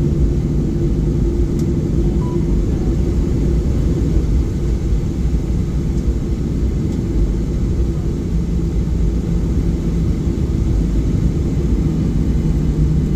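Steady low rumble inside the cabin of a Boeing 737-800 taxiing after landing, its CFM56-7B engines at idle, with a steady low hum running through it.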